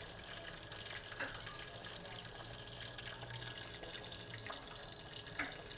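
Chicken frying in hot oil in a pan: a steady, faint sizzle with a few small ticks and pops.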